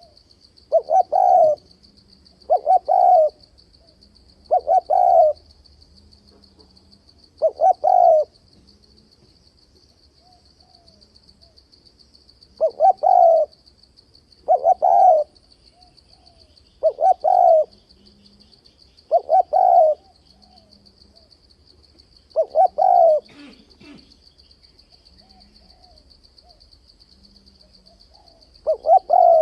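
Spotted dove cooing: a run of short, loud coo phrases about every two seconds, broken by pauses of a few seconds, over a steady faint high-pitched buzz.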